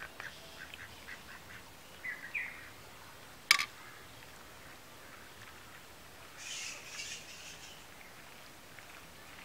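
Quiet outdoor ambience with birds calling, among them a short chirp about two seconds in and a louder call around the seven-second mark. A single sharp click, the loudest sound, comes about three and a half seconds in.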